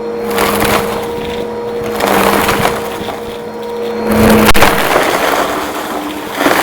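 Upright vacuum cleaner running with a steady motor hum while sucking up a dry, crunchy mess, which crackles through it in repeated surges, loudest about four seconds in, with a sharp click just after.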